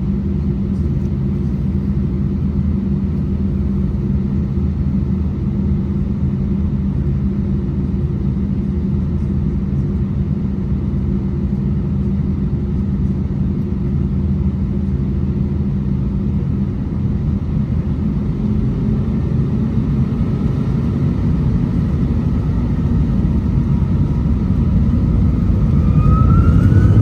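Inside the cabin of an Airbus A320-232, its IAE V2500 turbofan engines give a steady low drone while the aircraft holds on the runway. About two-thirds of the way through, the engines spool up with a rising whine and the sound grows louder as takeoff thrust is set.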